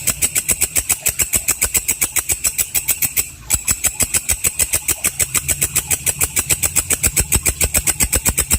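Walang kecek insect calling: a fast, even train of sharp chirps, about six a second, with a brief break about three seconds in.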